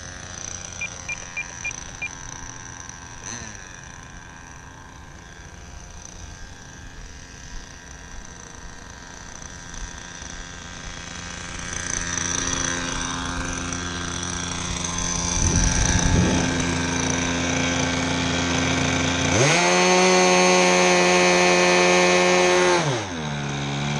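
Super Tigre .25 glow engine of an RC model airplane running on the ground. It idles, grows louder from about halfway, then is run up sharply to full throttle for about three and a half seconds near the end before dropping back to idle, a pre-takeoff run-up.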